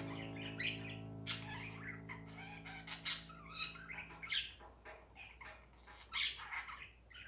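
Budgies and Gouldian finches chirping and squawking in short, scattered calls, over a held musical chord that fades away about halfway through.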